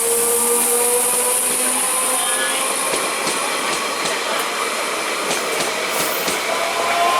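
Electric multiple unit local train running. A whine from the electric traction motors rises slowly in pitch over the first couple of seconds and then fades into the steady running noise, with scattered clicks of wheels over rail joints through the second half.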